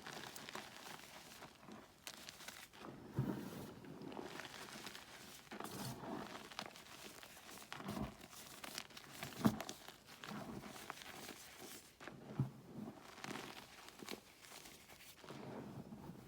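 Blocks of gym chalk being crushed and crumbled by hand: a steady, crackly crumbling with scattered small clicks and a few louder crunches as pieces break.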